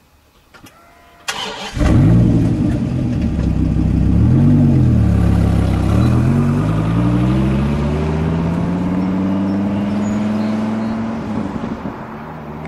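A Dodge Viper's V10 engine starts about a second in, is blipped once, then pulls away with the pitch rising steadily as it gathers speed, growing fainter as it moves off.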